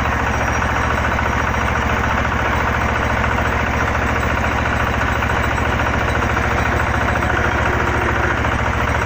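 Engine of a water well drilling rig running steadily, with a fast, even low beat.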